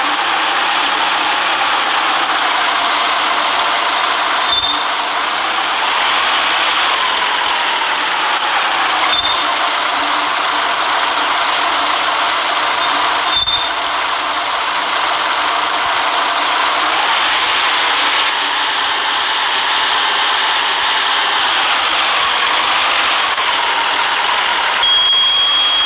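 City bus running along the road, its engine rising and falling in pitch through the gears over a steady road and tyre noise. Three sharp clicks, each with a short high beep, come about every four and a half seconds, and a longer high beep sounds near the end.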